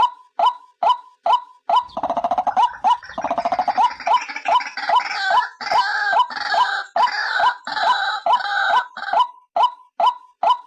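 White-breasted waterhen (ruak-ruak) calling: a steady series of short notes about twice a second, breaking about two seconds in into a louder stretch of rough, croaking calls that settles back into the even notes near the end.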